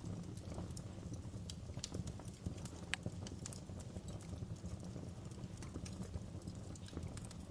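Wood fire in a fireplace crackling: a steady low rumble of burning with irregular small pops and snaps, one sharper pop about three seconds in.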